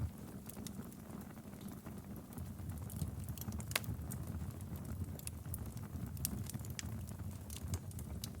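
Wood fire crackling in a fireplace: irregular sharp pops and snaps, one louder than the rest a little before halfway, over a steady low rumble of the flames.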